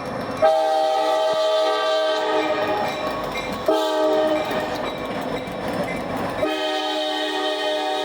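The multi-chime air horn of an Ohio Central SD40-2 locomotive sounds a long blast about half a second in, a short blast near the middle, and another long blast starting near the end, over the rumble of the passing train. This long–short–long pattern is the grade-crossing signal.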